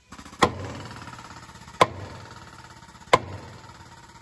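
Three sledgehammer blows, about a second and a half apart, struck on a Scania truck's spring bolt while a 45-ton hydraulic cylinder presses on it, the blows helping to free the seized bolt. A steady hum runs underneath.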